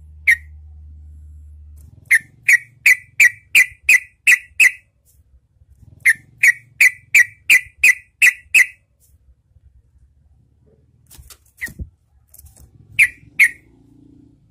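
Yellow-vented bulbul giving short, sharp call notes in two quick runs of about eight notes, roughly three a second, followed by a few scattered notes near the end.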